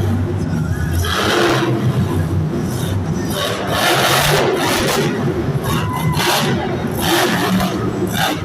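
Monster truck engine running and revving in loud surges, about a second in, in the middle and near the end, over crowd noise.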